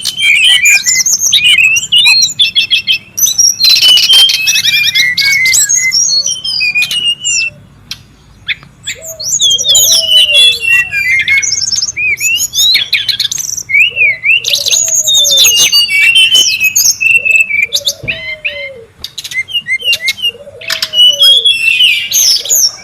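Brown-chested jungle flycatcher singing loudly in fast, varied phrases of high chirps and whistles, broken by short pauses. A lower, arching call repeats several times from about nine seconds in.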